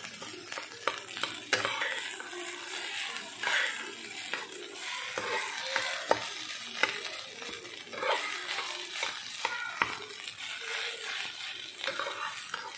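Fried rice sizzling in a frying pan, a steady hiss, with irregular clicks and scrapes of a metal spatula stirring and turning the rice against the pan.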